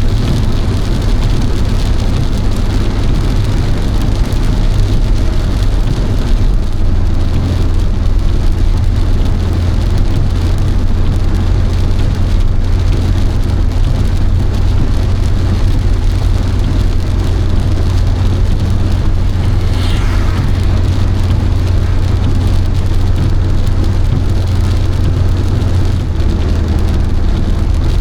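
Steady road noise of a car driving, with a constant low hum from the tyres and engine, and rain falling on the car.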